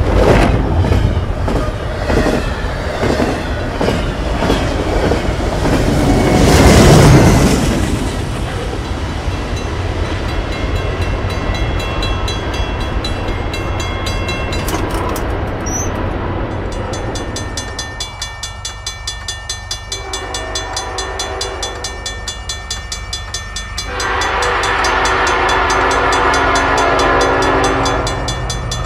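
Double-stack container freight train rolling past, its wheels clicking rhythmically over rail joints, with a loud rush of passing cars about seven seconds in. Later, level-crossing bells ring rapidly, and near the end a train horn sounds a steady multi-note chord for about four seconds.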